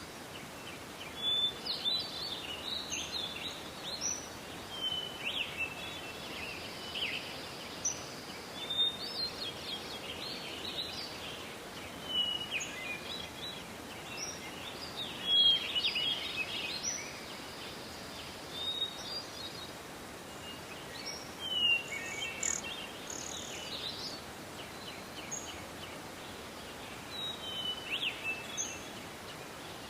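Forest ambience: several songbirds singing and calling in short, scattered phrases and chirps over a steady background noise of the forest, with a few seconds of lull near the end.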